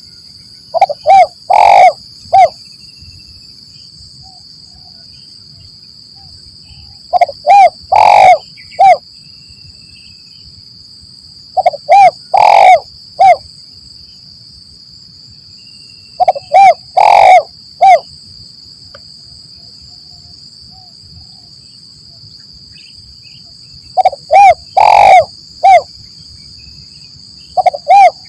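Spotted dove (tekukur) cooing: a low phrase of a few short notes around one longer, louder note, repeated about six times with pauses of several seconds between. A faint, steady, high-pitched insect-like hum runs underneath.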